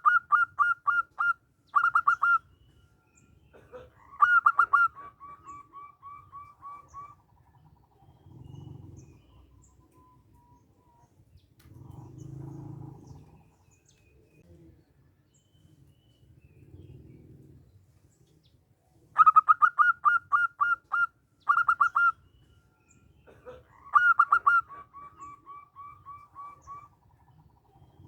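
Zebra dove (perkutut) singing: a bout of quick, clipped cooing notes that runs on into a longer string of softer notes, given twice, about twenty seconds apart. Fainter low murmuring sounds come in the gaps between the bouts.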